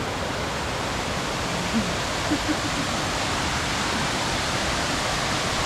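Waterfall rushing steadily: a constant, even wash of falling water hitting rocks.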